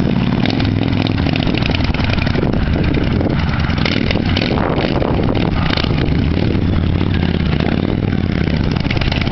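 Motorcycle trike engine running steadily, its level holding even throughout.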